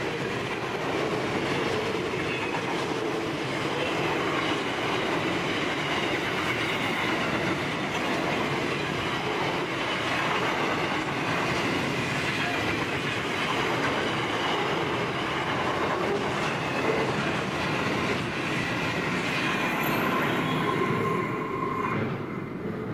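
Loaded steel-train freight wagons rolling past on the rails: a steady clickety-clack of wheels over the track with some wheel squeal. The sound falls away near the end as the last wagon passes.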